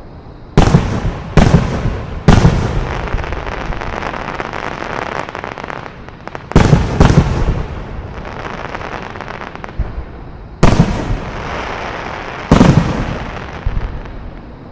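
Aerial fireworks shells bursting: seven loud bangs, three close together in the first few seconds, then pairs about half a second and two seconds apart, each followed by a long crackling, rumbling decay.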